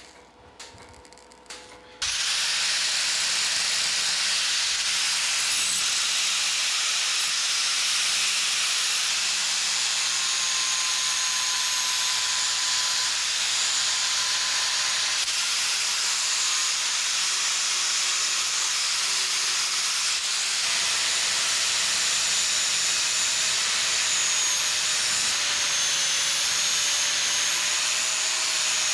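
A power tool starts about two seconds in and runs steadily, giving a loud hiss with a faint wavering whine, after a few light taps.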